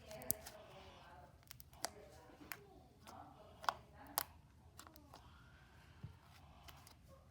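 Slime being handled: scattered sharp clicks and pops, several a few seconds apart, with faint voices in the background.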